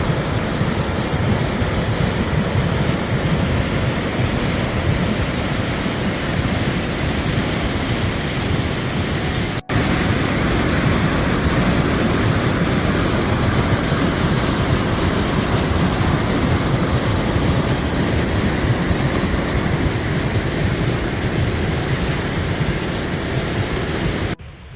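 The Millstone River rushing, running high and fast after heavy overnight rain: a loud, steady roar of water that breaks off for an instant about ten seconds in.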